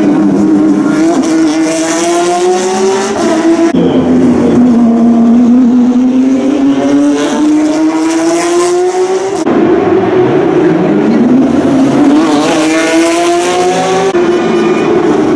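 Porsche 911 GT3 Cup race cars' flat-six engines at high revs, their pitch climbing steadily as they accelerate. The sound breaks off and restarts suddenly about four seconds in and again near the ten-second mark.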